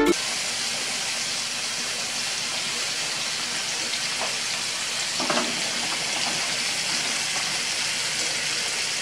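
Chicken pieces sizzling as they fry in oil in a nonstick pan, a steady hiss.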